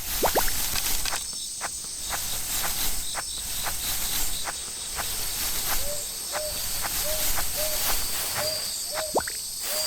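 Insects chirping in a steady high drone, with water dripping and plopping in quick rising blips and scattered light clicks.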